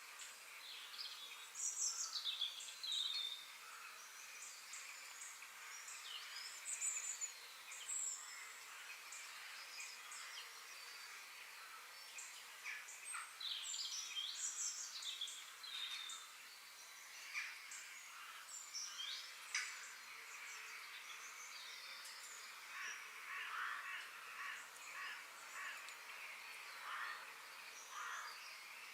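Several wild birds singing and calling, with many short chirps and whistles overlapping throughout, over a steady hiss of outdoor background sound.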